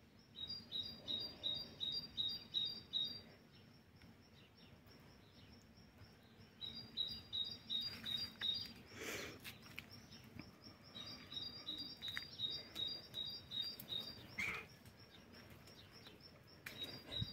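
A small songbird repeating a short, high chirp about three times a second, in bouts of a few seconds with pauses between.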